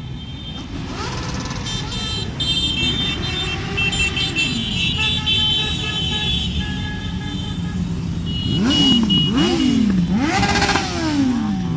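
A group of motorcycles running past, with horns honking for a few seconds and engines revved up and down several times in quick succession near the end.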